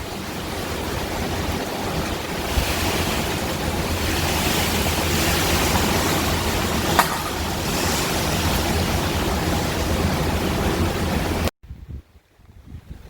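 Hurricane-force wind and rain rushing and buffeting the microphone in a steady loud roar. It cuts off abruptly near the end.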